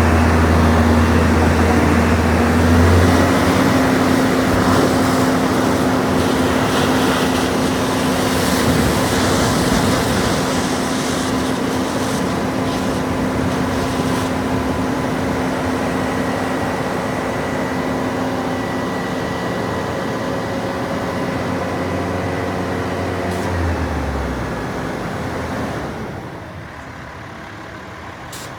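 Freightliner 108SD vacuum truck, with its Cummins ISL diesel, running steadily with a strong low hum and several steady tones. The low hum shifts a few seconds in, and the whole sound drops noticeably quieter near the end.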